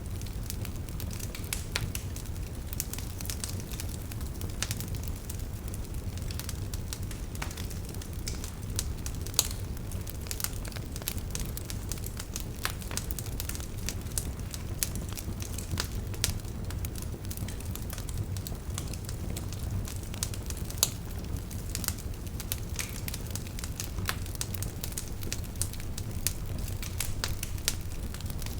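Wood fire burning, with a steady low rumble of the flames and frequent irregular sharp crackles and pops from the burning wood.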